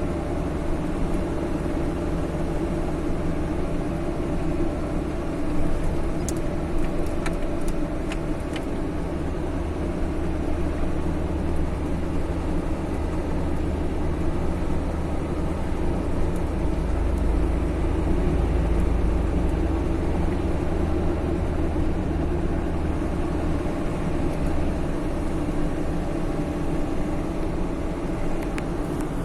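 Car on the move: steady engine and road noise with a continuous low hum, the low rumble growing heavier for several seconds past the middle.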